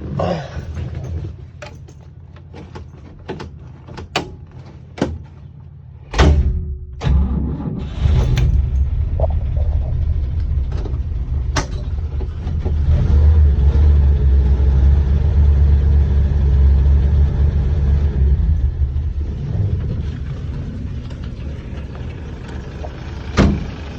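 Toyota FJ43 Land Cruiser's inline-six petrol engine, cold-started without choke: a few clicks, then about six seconds in it cranks and catches. It runs at a higher, louder pitch for several seconds, then settles to a smooth low cold idle. A single sharp knock near the end.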